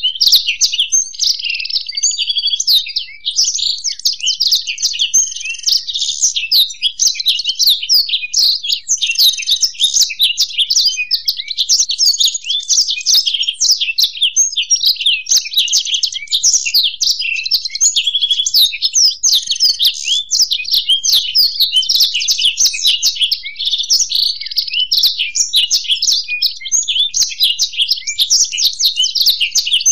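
Black-throated canary and European goldfinch singing together: a continuous, fast stream of high twittering trills and chirps with no pause.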